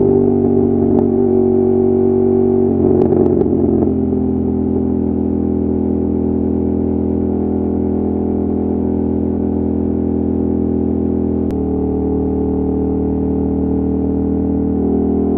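Ducati Monster 1200's L-twin engine running at a fairly steady engine speed, heard close up. It goes rougher briefly about three seconds in, and its pitch and level jump slightly about eleven seconds in.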